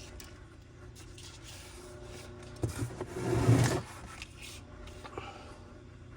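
Two light clicks, then a loud scraping rub of about a second near the middle: parts being handled on the bench.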